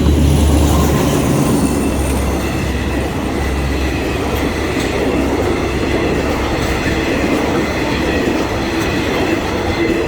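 Diesel-hauled passenger train passing close by on the main line, running loudly and steadily. A heavy engine rumble at first gives way to the rush and clatter of the wheels on the rails, with a faint high metallic whine.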